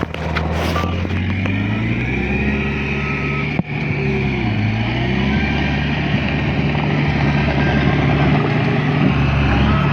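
Diesel engine of heavy earthmoving equipment running steadily, its pitch rising about two seconds in and dipping briefly around the middle before it settles again.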